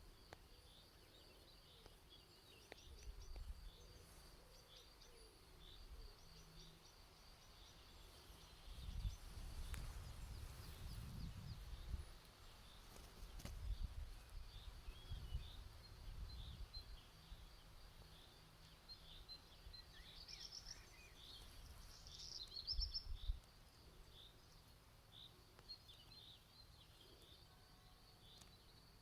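Birds chirping faintly, a steady run of short high notes, with a busier flurry of calls about two-thirds of the way through. Low rumbling noise comes and goes beneath them, loudest a third to halfway in.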